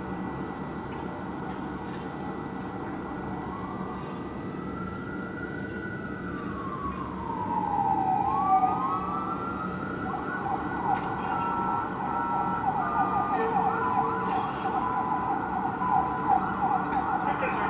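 Fire engine's Whelen electronic siren running a slow wail that climbs and then falls away. About halfway through it switches to a fast yelp, with quick repeated rising sweeps. A steady drone from the truck's engine runs underneath.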